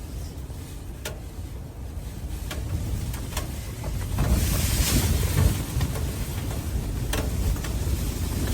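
Blizzard wind blowing and buffeting the microphone, a low rumbling rush that swells into a stronger gust with a hissing top about four seconds in, then eases a little. A few faint clicks sound through it.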